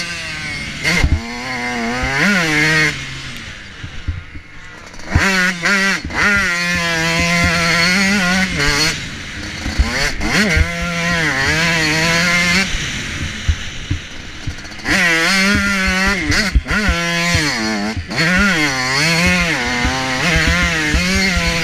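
Motocross bike engine heard from an onboard camera, revving hard and rising and falling in pitch again and again as the rider works the throttle and gears. The throttle is shut off twice, around four seconds in and again around fourteen seconds, and sharp knocks from the bike and track run through the whole ride.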